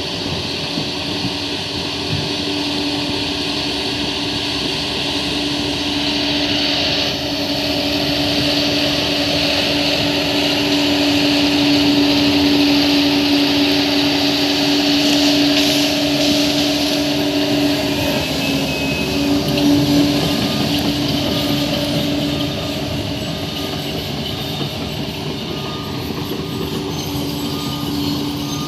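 Bulldozer engine running with a steady drone and whine, growing louder about seven seconds in and easing off again after about twenty seconds.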